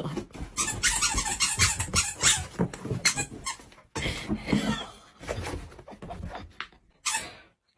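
Rapid series of short, sharp squeaks, breaking off suddenly about four seconds in, then quieter scattered squeaks and a brief final one.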